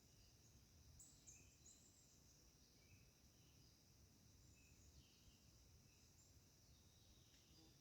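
Very faint, distant birds giving short chirps every second or so, over a steady high hiss of background noise.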